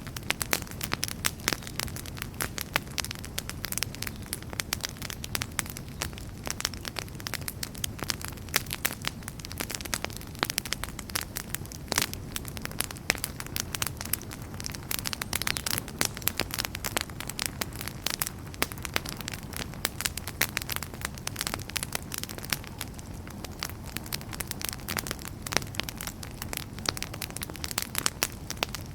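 Wood campfire burning steadily with dense, irregular crackling and popping over a low rumble of flames.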